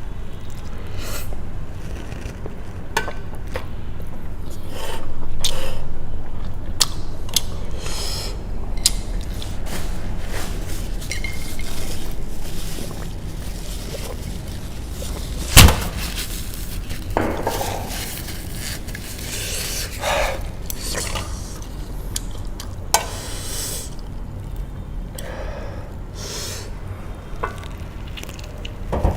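Close-miked eating of Korean spicy noodles with eggs: utensils click and scrape against the bowl, with softer eating sounds in between. One sharp knock about halfway through is the loudest sound.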